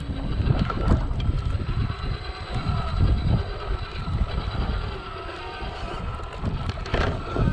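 Radio-controlled Traxxas TRX-4 crawler truck driving over wet rocks: a faint motor whine over a heavy, uneven low rumble, with scattered clicks and a louder burst about seven seconds in.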